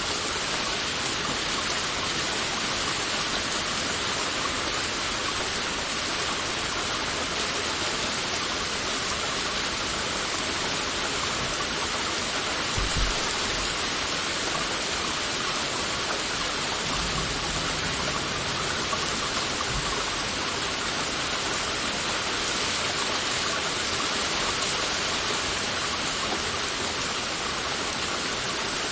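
Heavy rain falling steadily, a dense even hiss, with a brief low thud about halfway through.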